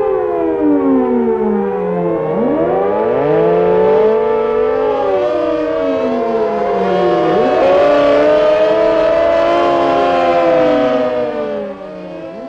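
Several civil defence air-raid sirens sounding the attack warning at once, each with a rising and falling note, out of step with one another. The sound becomes quieter near the end.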